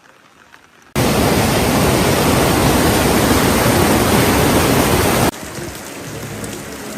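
Loud, even rush of water, such as a downpour or cascade, that cuts in abruptly about a second in and drops away suddenly about four seconds later, leaving fainter rain.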